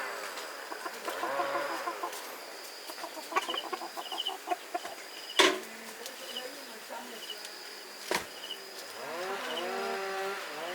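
Chickens clucking and calling, with several drawn-out calls overlapping near the end. Short high peeps repeat throughout, and two sharp knocks sound about five and eight seconds in.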